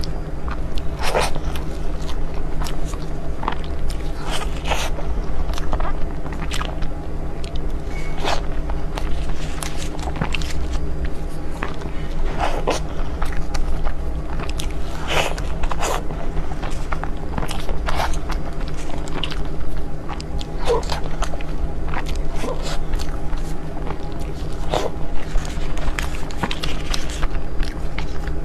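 Close-miked eating of desserts: irregular bites, chewing and wet mouth clicks, over a steady low hum.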